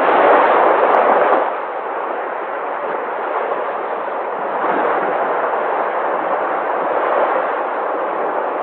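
Sea waves washing ashore: a continuous rush of surf, louder for about the first second and a half, then a steady wash.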